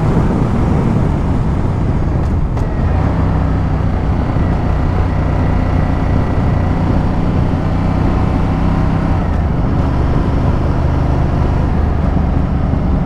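Ducati Multistrada 1200's V-twin engine running steadily while the motorcycle is ridden, heard with road and wind noise. The engine note shifts at about two and a half seconds and again near ten seconds.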